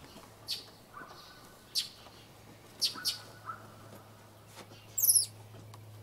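Birds chirping: short, high chirps about once a second, some trailing into a brief whistle, with a louder, very high double call about five seconds in.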